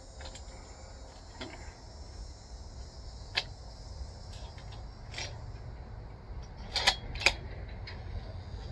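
A few short, sharp clicks over a steady low rumble, the loudest two close together near the end.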